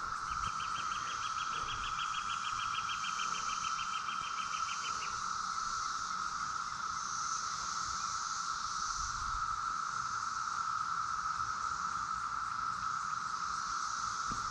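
Brood X periodical cicadas chorusing: a loud, steady drone held at one pitch, with a higher hiss swelling and fading above it. For about the first five seconds a rapid ticking, about six ticks a second, runs over the drone.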